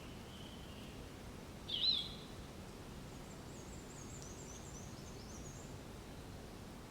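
Birds calling over a faint steady background: one loud short call with a wavering pitch about two seconds in, then a run of faint, high, repeated chirps.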